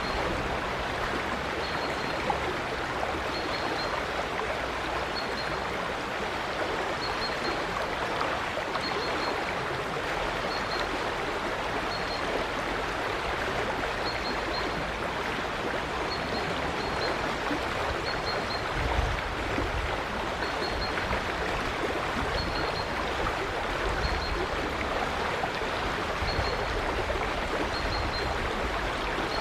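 River water flowing steadily in an even rushing babble, with a faint, high, short chirp repeated about once a second or so throughout.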